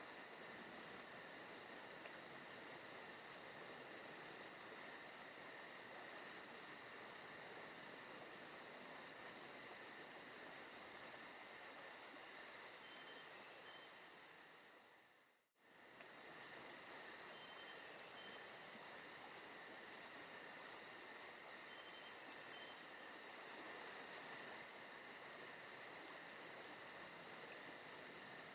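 Recorded forest night ambience of crickets and other insects chirping in a steady, fast, even trill, with a few faint short chirps. It fades out to silence for a moment about halfway through and then comes straight back, like a loop restarting.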